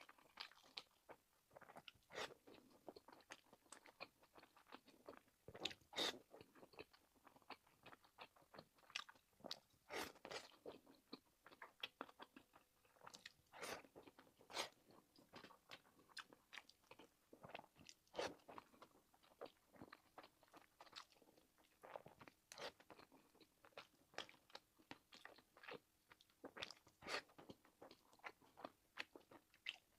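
A person chewing and biting into pork-and-scallion dumplings, close to the microphone: soft, irregular mouth clicks, one to several a second.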